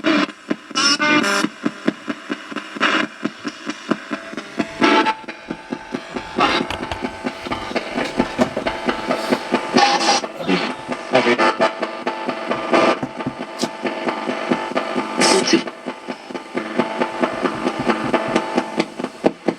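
Spirit box radio sweeping rapidly through stations: a continuous choppy stutter of static and snatches of broadcast voices and music, several chops a second.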